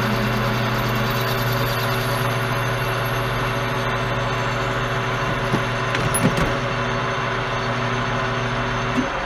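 Metal lathe running under a parting-off cut through a 1-inch bar: a steady motor hum with a hiss of cutting. There are a few light knocks about six seconds in. Just before the end the hum cuts off abruptly.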